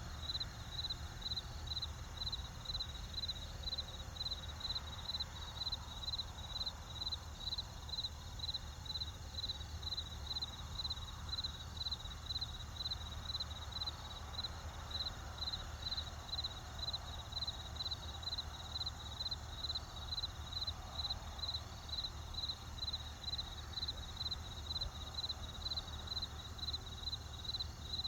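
A cricket chirping steadily, about two evenly spaced high chirps a second, over a low steady rumble.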